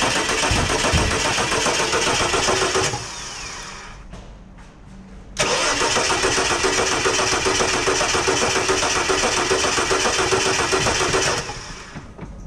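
Starter motor cranking the 1983 XE Ford Falcon's 4.1-litre Crossflow inline six in two long bursts, the first stopping about three seconds in and the second running about six seconds, each cut off abruptly without the engine catching.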